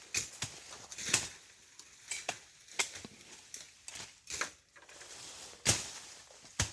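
Irregular sharp chops and crackles, about a dozen strikes of uneven spacing and loudness: brush and vegetation being cut to clear the ground around a beehive.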